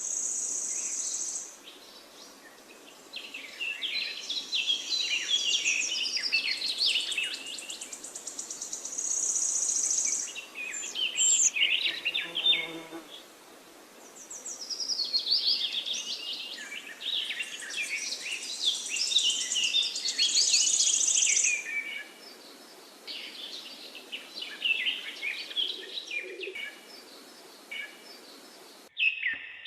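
Songbirds singing in bouts of rapid, twittering notes, with a high, steady buzzing that comes and goes several times. The sound drops out briefly near the end.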